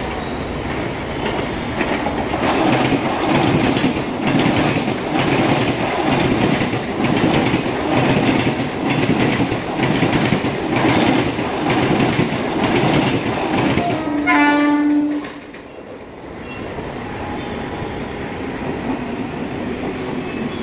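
Mumbai suburban electric local train passing at speed, its wheels clattering rhythmically over the rail joints. About two-thirds of the way through, a train horn sounds once for about a second, and after it the run goes on more quietly as a steadier rumble.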